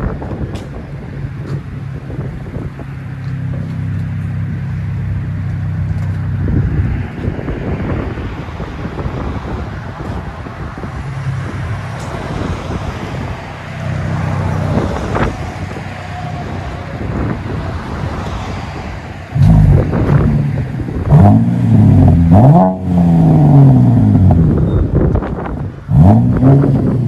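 A Chevy Camaro's 3.6L V6 with an X-pipe and MagnaFlow Magnapack mufflers, idling with a deep exhaust tone, then revved hard four or five times from about two-thirds of the way in.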